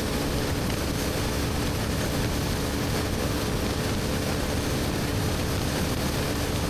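BMW R1250GS Adventure's boxer-twin engine with an Akrapovic slip-on exhaust, running at a steady cruising speed under a steady rush of wind and road noise.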